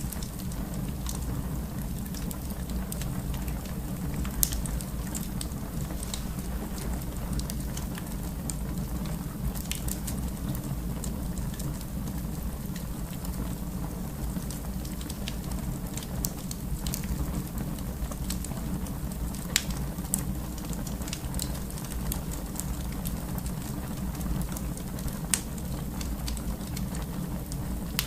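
Wood fire burning in a fireplace: a steady low rumble of flames with sharp crackles and pops scattered irregularly, a handful of them louder than the rest.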